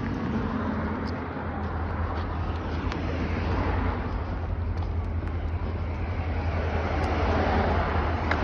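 Steady vehicle road noise: a constant low rumble with an even hiss over it and a few faint clicks.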